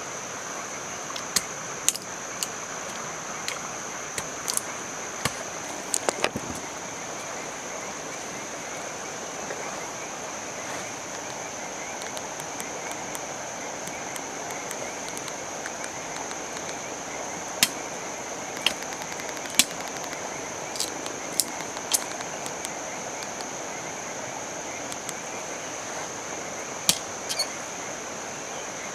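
Steady outdoor hiss with a constant high-pitched tone, broken by scattered sharp cracks and snaps: several in the first six seconds, a run about two-thirds of the way in, and two more near the end.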